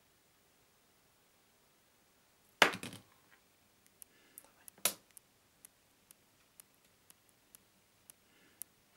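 Small plastic toys handled close to the microphone: a loud plastic clatter, a second sharp knock, then single sharp clicks about twice a second.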